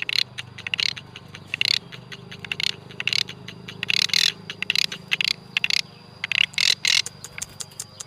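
A jalak (starling or myna) chattering in irregular bursts of rapid clicks and short harsh notes, over a steady low hum.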